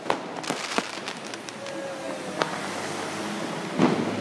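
Fireworks going off all around: a steady background of distant bangs and crackling, with several sharp cracks, the loudest a bang near the end.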